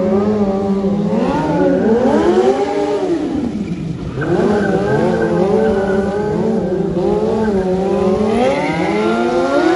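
Stunt motorcycle engine revving up and down repeatedly, its pitch rising and falling, with a dip about four seconds in and a climb again near the end.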